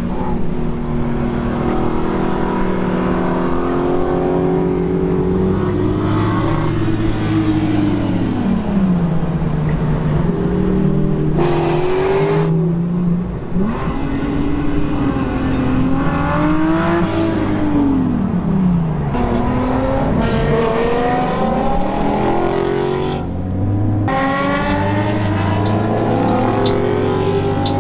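Car engines revving and accelerating: the pitch of one engine sweeps up and falls back several times over the steady drone of other engines running.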